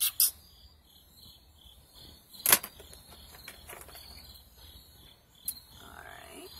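Crickets chirping steadily, with a few sharp clicks and taps over them. The loudest tap comes about two and a half seconds in.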